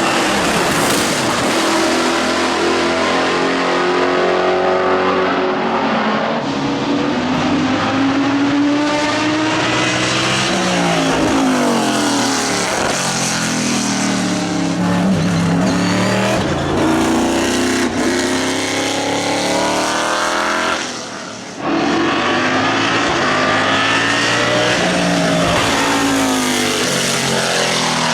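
Lola B98/10 prototype's Roush-built Ford V8 racing engine running hard, its revs climbing and dropping again and again through gear changes. The sound briefly falls away about 21 seconds in, then comes back at full level.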